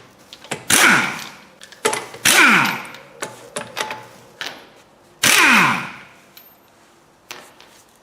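Impact wrench spinning the wheel's lug nuts loose, in three or four short rattling bursts whose pitch falls as each one winds down, with light metallic clicks of nuts and socket between them.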